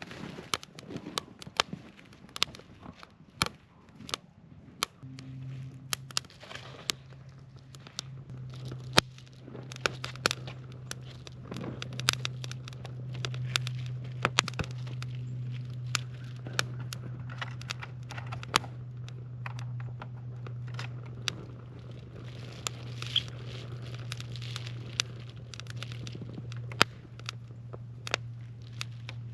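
Wood fire crackling and popping in a portable fire pit, with many sharp irregular pops. A steady low hum comes in about five seconds in.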